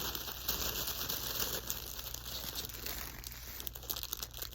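Packaging being handled and unwrapped by hand, crinkling and rustling in irregular little bursts that ease off near the end.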